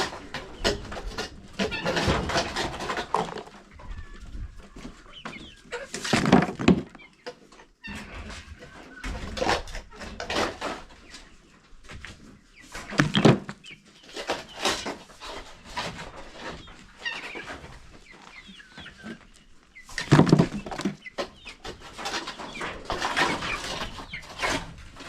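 Chickens clucking around a coop, in short, irregular calls, with three louder bursts about 6, 13 and 20 seconds in.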